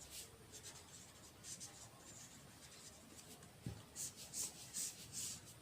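Handwriting: faint, scratchy pen-like strokes, thickest in a run of quick strokes near the end, with one soft low knock shortly before them.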